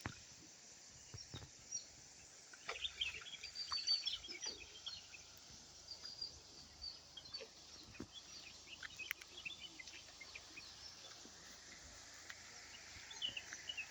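Small birds chirping faintly: many short, high calls scattered irregularly, a little thicker about three to five seconds in and again near the end, over a faint hiss.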